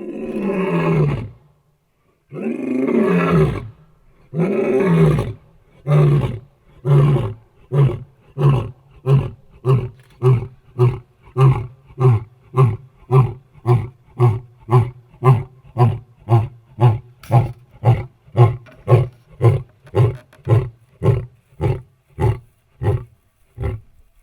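A lion roaring: three long, drawn-out roars, then a long run of short grunting calls, about one every 0.7 seconds, that trail off near the end.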